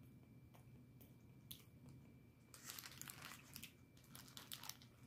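Faint eating sounds: chewing and small crunching clicks, with a brief scratchy rustle about two and a half seconds in.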